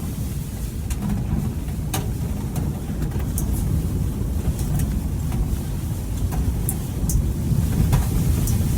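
Strong blizzard wind buffeting the microphone, a loud, uneven low rumble, with scattered sharp ticks every second or so.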